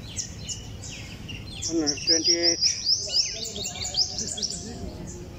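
Birds chirping, many short falling chirps, with a loud quick run of them about two seconds in.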